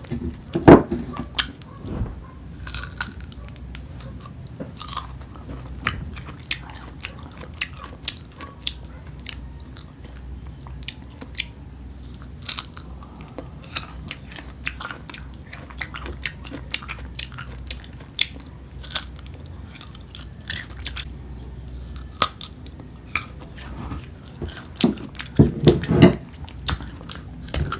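Close-up crunchy bites and chewing of unripe green mango slices, with many sharp crunches and a louder run of bites near the end.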